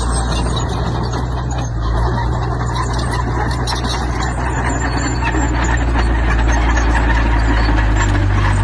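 Diesel engine of heavy earthmoving machinery running steadily under load, with dense crunching and clattering of stone, getting a little louder about halfway through.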